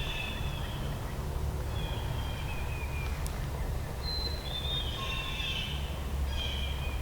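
Songbirds singing in the woods: short, high whistled notes and trills coming and going, over a steady low rumble.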